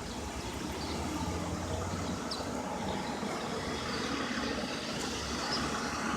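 Steady hum of city street traffic, an even rumble with no single vehicle standing out.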